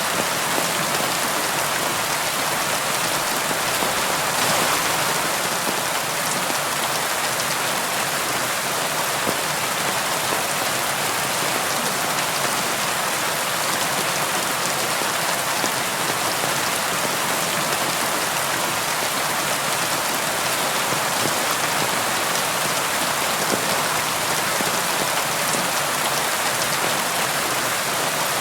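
Steady rain falling and pattering on a surface, with fine individual drop ticks over an even hiss.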